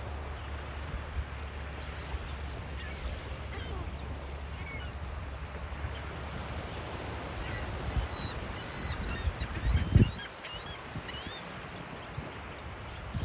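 Seagulls calling over steady surf, with short squawks scattered through and most of them in the second half. A sudden low thump about ten seconds in is the loudest moment.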